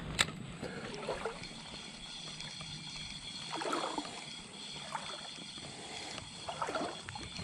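Shallow creek water trickling steadily, with a click just after the start and a couple of brief soft splashes about three and a half and six and a half seconds in.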